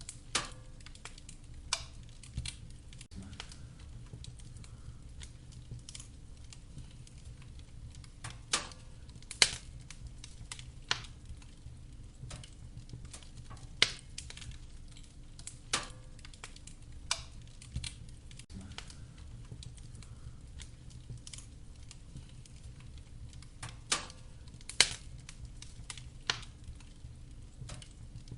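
Wood fire crackling in a fireplace: sharp, irregular pops and snaps, a few seconds apart and some much louder than others, over a steady low rumble of the burning fire.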